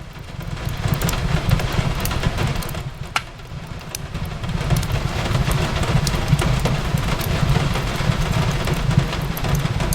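Fireplace crackling: scattered sharp pops, one louder about three seconds in, over a steady low rumble, with the even hiss of rain on a window. It grows louder about a second in and again around halfway.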